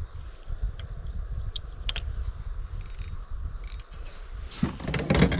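River ambience: wind rumbling on the microphone under a steady high insect drone, with a few sharp ticks and a short burst of water noise near the end.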